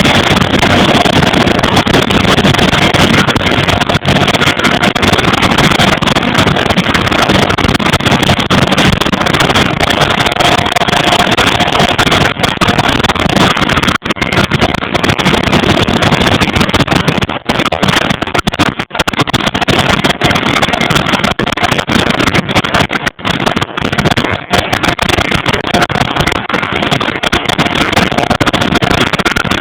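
Vickers Vanguard's Rolls-Royce Tyne turboprop engines running on the ground: a loud, steady roar with a steady whine over it, and a few brief dips in level in the second half.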